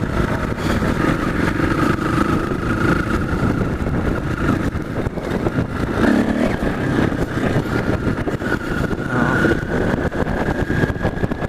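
Motorcycle engine running steadily under way, mixed with wind and road noise, its pitch stepping up a little about halfway through.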